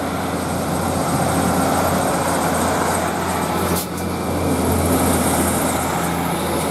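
Class 156 diesel multiple unit pulling away from the platform, its underfloor diesel engines under power giving a steady drone with a low hum, briefly dipping about four seconds in.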